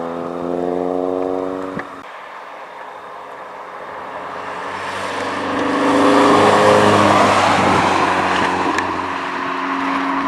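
Honda Civic SiR's four-cylinder VTEC engine through an aftermarket Blackworks Racing exhaust: a steady note that cuts off sharply about two seconds in, then grows louder with a rush of noise to a peak past the middle and eases slightly near the end.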